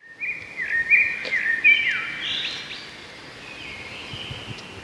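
Birds calling: a quick run of whistled notes that step up and glide down, loudest in the first two seconds and then fading to softer calls.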